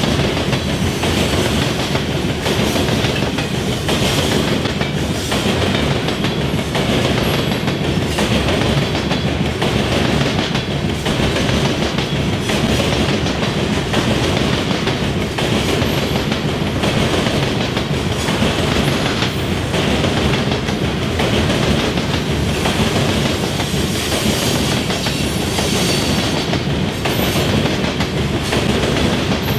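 Loaded coal hopper cars of a freight train rolling past, a steady rumble with the wheels clacking in a regular rhythm as they cross the diamonds.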